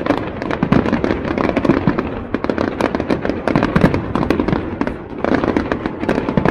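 Fireworks crackling and banging in rapid, dense succession, many reports a second, with a brief lull about five seconds in.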